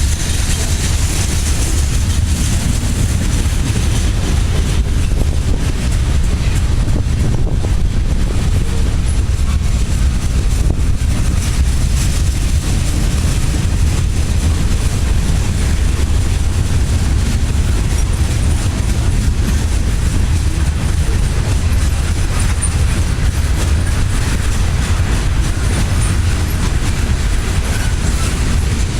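A train passing, its railcars rolling by in a steady, loud rumble.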